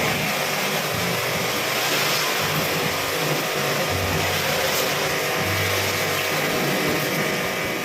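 High-pressure washer jet spraying washing-machine parts: a loud, steady hiss of spray over a motor hum.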